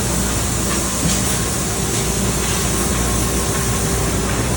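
Steady cabin drone of the Cessna 340's twin piston engines and propellers in cruise, heard as an even roar with a low hum underneath.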